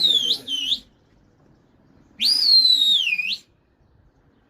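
A pigeon keeper whistling loudly at his flock: a high whistle that breaks off with a short extra note just under a second in, then a second long whistle about two seconds in that holds and then slides down before stopping.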